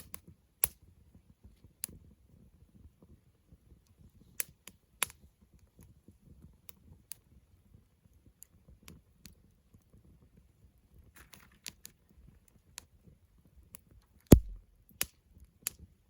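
Wood campfire crackling, with sharp pops at irregular intervals and one louder pop about fourteen seconds in.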